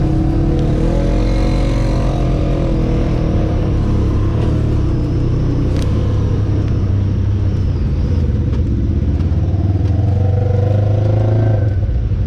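Honda Pioneer 1000 side-by-side's engine running steadily while driving the trail. The engine pitch climbs near the end, then drops off sharply as the throttle is let off.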